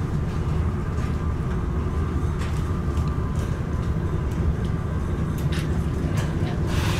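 Inside a passenger train's carriage while it runs: a steady low rumble of wheels on the rails, with a faint thin hum and occasional light clicks.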